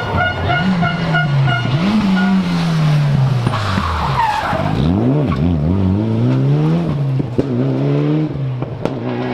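Rally car engine revving hard, its pitch falling away and then rising and dropping in several quick surges, with tyres squealing and skidding a little past three seconds in and a sharp crack or two near the end.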